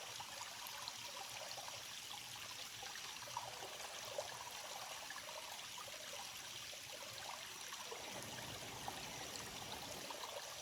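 Faint, steady rush of flowing water, like a stream, with a thin, high, steady tone above it.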